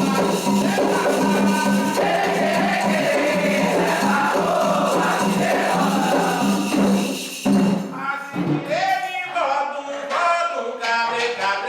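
Candomblé ritual music: voices singing a sacred song over hand percussion. About eight seconds in, the dense accompaniment drops away, leaving the singing over sharp percussive strikes.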